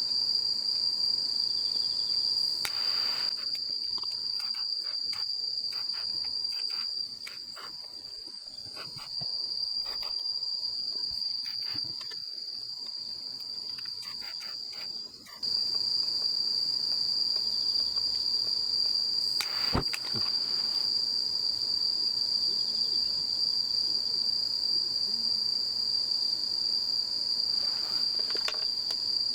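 Bell crickets singing in a continuous high, steady chorus. It drops lower for about ten seconds early on, when faint clicks come through, then returns at full strength.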